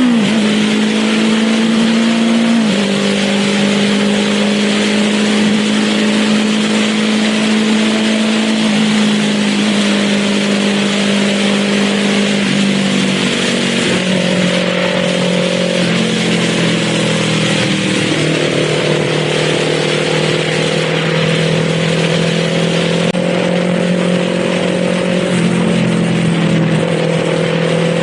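Kawasaki Z400 parallel-twin engine running steadily under way, heard from the rider's position, over a steady hiss of wind and road noise. The engine note drops in small steps a few times, near the start and again around a third and two thirds of the way through, and holds level in between.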